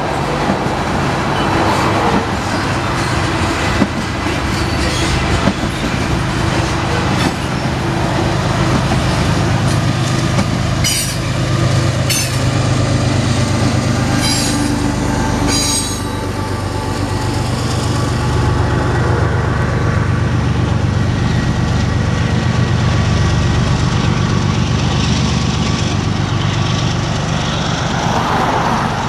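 Freight train of tank cars rolling past, with a few sharp wheel clicks about halfway through. A Union Pacific diesel locomotive at the tail of the train then passes with a steady low engine drone that carries on as it moves away.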